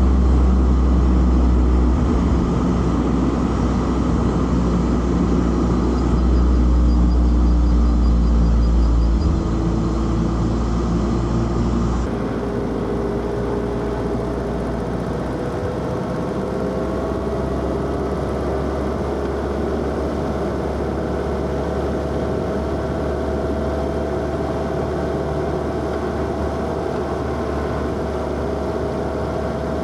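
Inline-four car engine pulling under way, with a heavy low rumble of wind and road noise. About twelve seconds in the sound changes abruptly, then the engine note climbs slowly and steadily as the car accelerates.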